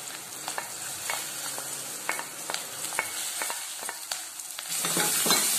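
Garlic, green chillies, ginger and curry leaves sizzling in hot coconut oil in a kadai, with scattered sharp clicks of a spatula scraping them off a plate into the pan. Near the end the sizzle grows louder as more goes into the oil.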